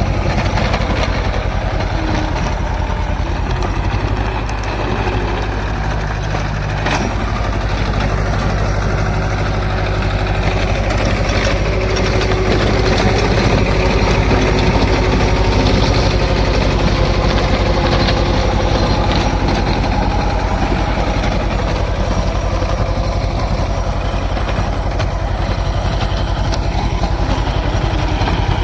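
Swaraj 724 XM Orchard tractor's diesel engine running steadily, with a single sharp click about seven seconds in.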